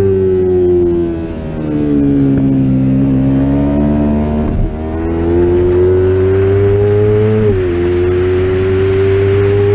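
Yamaha R25's parallel-twin engine under race riding, heard on board: its note falls and holds low through a leaned-over corner, then rises steadily under acceleration from about halfway. Near the end the pitch drops sharply as it shifts up a gear, and it climbs again.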